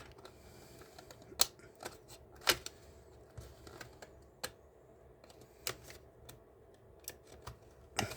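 Sharp, irregular clicks and taps of hard plastic model car parts being handled and pried apart, roughly one a second, the two loudest about a second and a half and two and a half seconds in.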